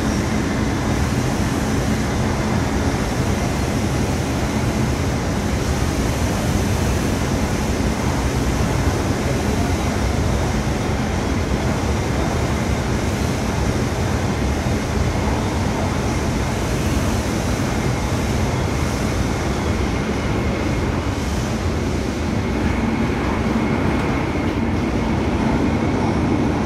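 Steady running noise of an MTR Tung Chung Line CAF-built electric train, heard from inside the passenger car: a constant rumble and rail roar with a few faint steady tones over it.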